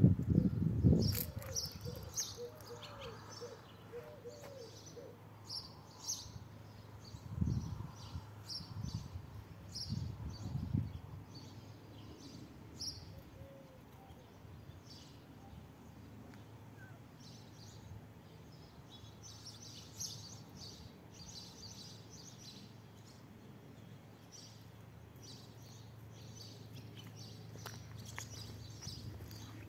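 Small birds chirping: many short, high chirps scattered throughout, with a low wavering call in the first few seconds. A few low thumps stand out near the start and twice more a little later.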